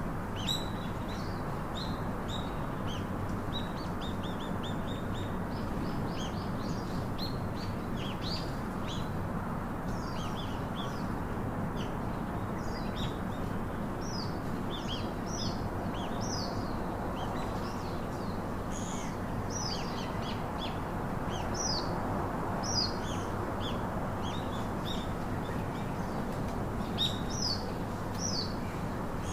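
Songbirds chirping, many short quick calls and trills overlapping without pause, over a steady low background hiss.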